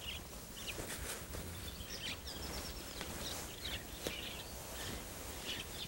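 Faint, scattered bird chirps over a low, steady background noise.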